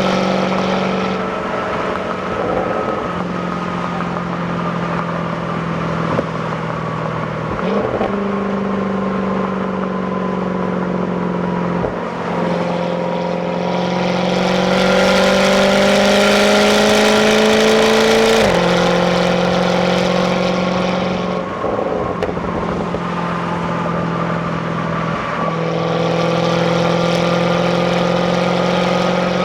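Jaguar F-Type's supercharged 5.0-litre V8 through its stock exhaust, heard from the passenger seat while driving. The engine note is steady, with several short breaks and steps in pitch. About halfway through it grows louder and the revs climb for several seconds under acceleration, then drop suddenly.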